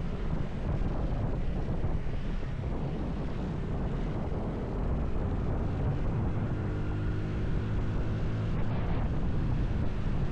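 Wind rushing over an action camera's microphone on a moving motorcycle, a steady low buffeting. Past the middle, the motorcycle's engine note comes through more clearly for a few seconds.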